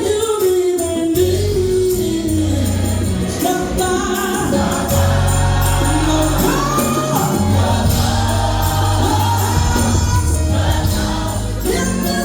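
Gospel choir singing with band accompaniment and a steady bass line, a lead voice sliding between notes over the ensemble.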